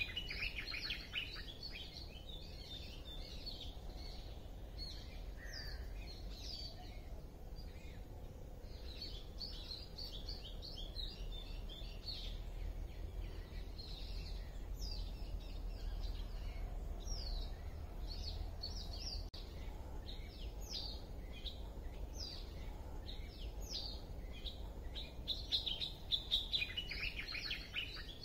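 Many small birds chirping and calling in woodland: a steady stream of short high notes and quick falling calls, with busier bursts of chirping at the start and again near the end, over a low steady rumble.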